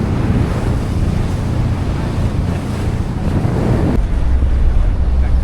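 Wind buffeting the microphone over the rush of sea water and waves around a moving boat. About four seconds in the sound abruptly turns duller and heavier in the low end.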